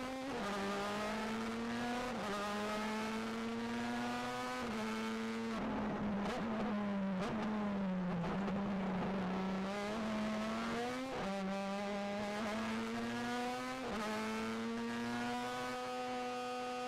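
Race car engine heard from inside the caged cabin, driven hard at high revs: its pitch climbs slowly and drops sharply about six times at throttle lifts or gear changes, once sagging and recovering, over a steady hiss of road noise.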